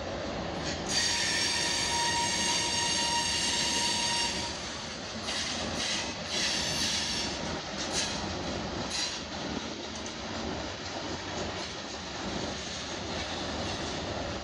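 Freight train cars rolling slowly past on a curve, steel wheels rumbling and clattering on the rail. About a second in a high, steady wheel squeal starts and holds for about three seconds, followed by a few shorter squeals: wheel flanges grinding against the rail in the curve.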